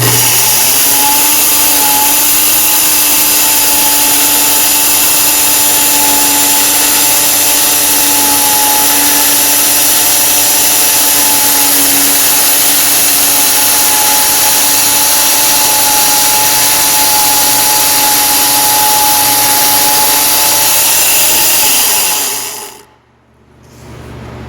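A power tool's motor starts, runs loud and steady at a constant high pitch for about twenty seconds, then is switched off and winds down near the end.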